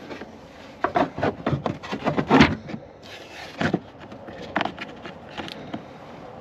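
Irregular knocks, clicks and scrapes of hard objects being handled. They come thick and fast in the first few seconds, followed by a few single knocks.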